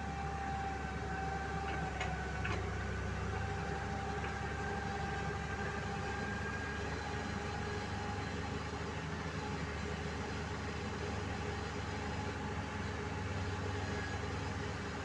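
Rice combine harvester engine running steadily, a continuous drone with a steady whine over it.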